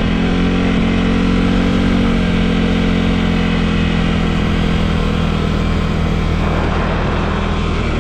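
Quad bike engine running steadily while riding, its pitch rising and falling only slightly, with road and wind noise over it.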